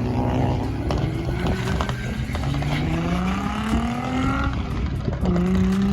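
A car engine accelerating hard, its pitch rising in a run, dropping at an upshift about two and a half seconds in, rising again, then another shift near the end. Wind rumbles on the microphone throughout.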